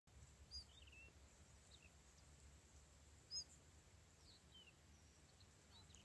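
Faint, thin, high bird chirps in short falling notes, scattered a few at a time, the clearest about half a second in and a little over three seconds in, over a low steady background rumble.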